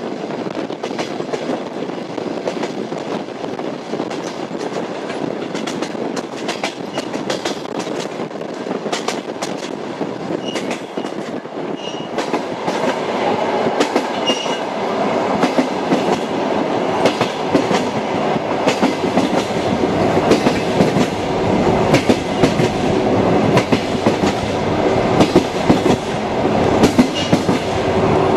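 Train wheels clicking over rail joints over a steady rolling rumble, growing louder about halfway through.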